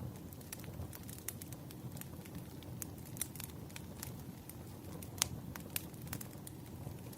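Wood fire crackling: a steady low rush of burning logs with irregular sharp pops and snaps, the loudest pop a little past five seconds in.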